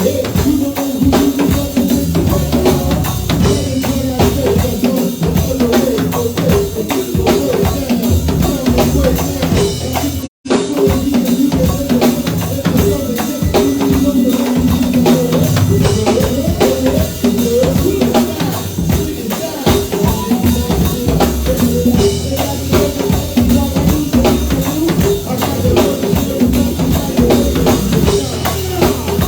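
Live band playing instrumental music with a drum kit keeping the beat. The sound drops out for a split second about ten seconds in.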